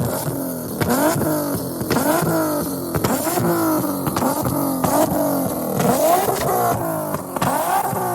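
A car engine with long-tube headers revved in quick repeated throttle blips. The pitch shoots up and drops back about once a second.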